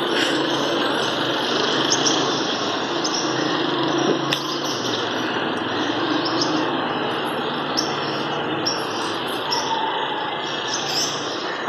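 Small birds chirping repeatedly in short, high notes over a steady, loud background hiss, with one sharp click about four seconds in.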